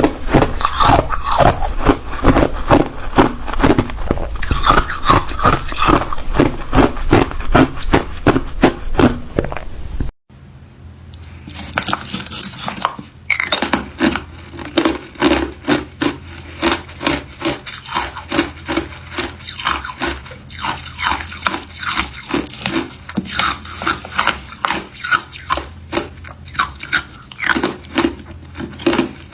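Hard ice cubes crunched and chewed close to the microphone, a rapid run of sharp crunches. About ten seconds in the sound cuts off abruptly, then resumes as a quieter, slower run of crunching chews.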